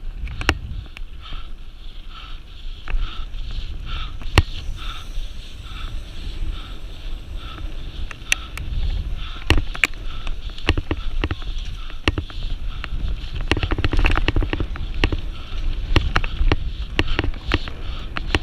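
Low rumble with many sharp rattling knocks and clicks, busier in the second half, typical of a rider's descent over rough ground.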